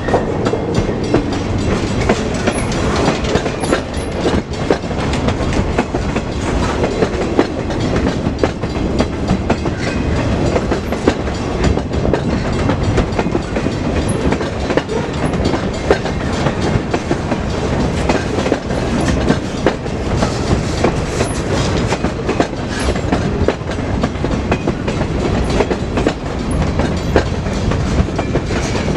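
A train's railroad cars rolling past, the wheels clacking over the rail joints in a loud, steady run of clicks.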